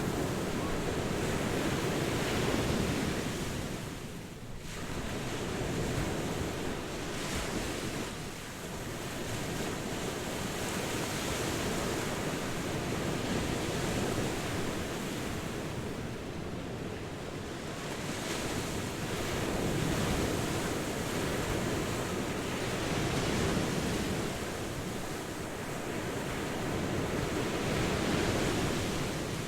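Ocean waves washing onto a shore, a continuous surf hiss that swells and eases every few seconds.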